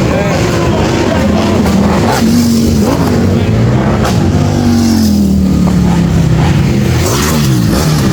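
Car engines revving and running, with more than one engine heard at once. Their pitch rises and falls, with quick rev swings near the end.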